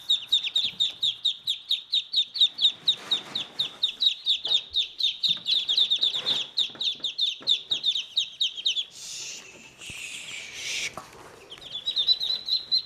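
Muscovy ducklings a day old peeping rapidly and continuously in high, short downward-sliding peeps, about five a second. A couple of seconds of rustling noise breaks in past the middle, then the peeping resumes.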